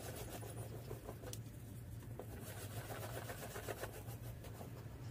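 Oxidation-remover wipe rubbed in circles on a plastic headlight lens: a soft, scratchy rubbing over a steady low hum.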